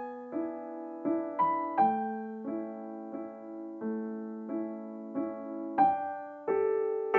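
Background piano music: a slow, gentle melody of single struck notes over sustained low notes.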